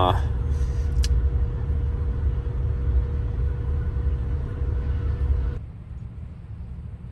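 Steady low rumble of a vehicle moving along the road, heard from inside the cabin, with a faint steady hum. It cuts off suddenly about five and a half seconds in, giving way to a much quieter background.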